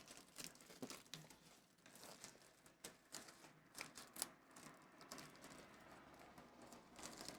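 Faint crinkling of plastic packaging with scattered small clicks as a sealed coin-album refill page is opened and handled.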